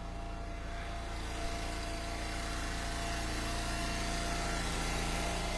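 Small gas engine of a log splitter running steadily at an even speed, with no splitting stroke or impact.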